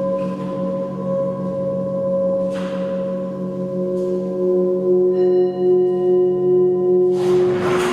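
Several sustained ringing tones held together and wavering gently in loudness, with a new, lower tone swelling in about halfway through. A short burst of hiss comes about two and a half seconds in, and a louder one near the end.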